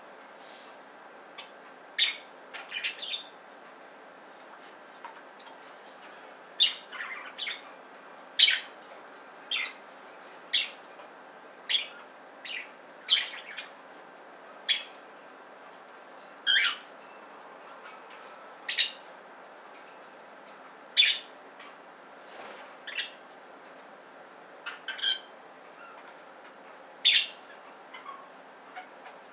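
Pet budgerigars, a lutino and an albino pair, giving short, sharp chirps one at a time, irregularly about every second or two, over a steady faint hiss.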